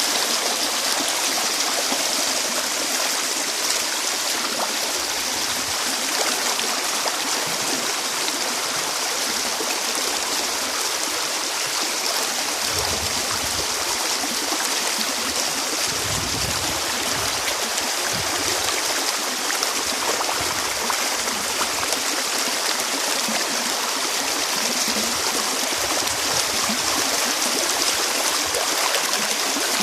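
Steady rushing of water flowing in a stream, with a few faint low rumbles around the middle.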